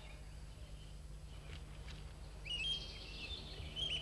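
Birds chirping in forest ambience: a cluster of short, high chirps starting about two and a half seconds in, over a steady low hum.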